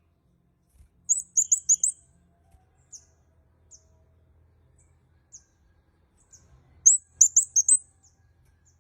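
Kemade kepala merah songbird calling: two quick runs of about five very high, sharp chirps, about a second in and again near the end, with single high chips scattered between.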